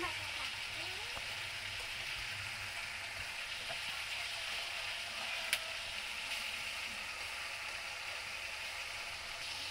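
Pork steak pieces sizzling steadily in a wok on a gas burner as they are turned with a metal utensil. One sharp click about five and a half seconds in.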